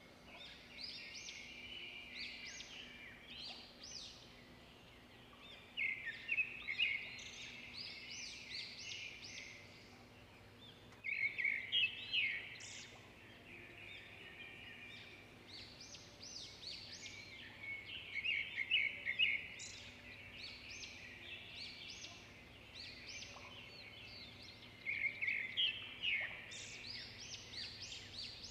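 Chicken pieces frying in oil in a non-stick wok, sizzling and crackling, with louder spells of crackle every several seconds.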